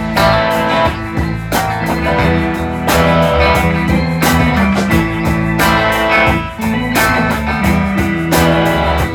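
Live rock band playing an instrumental passage: guitars over bass and a drum kit with a steady beat.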